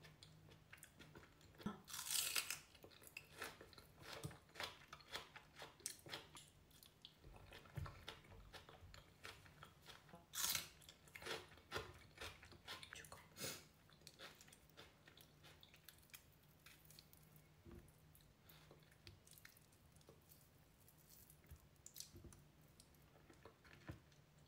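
A person eating pickled herring and raw onion close to the microphone: wet chewing with crisp crunching bites. The loudest crunches come about two seconds in and again around ten seconds in.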